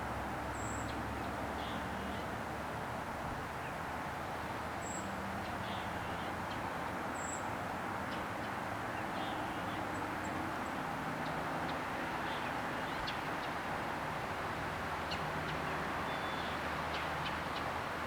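Faint, brief high bird chirps every couple of seconds over a steady outdoor rush with a faint low hum.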